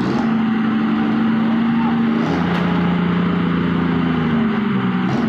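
Vehicle engine running with a steady drone over road noise; its pitch drops abruptly about two seconds in and shifts again near the end.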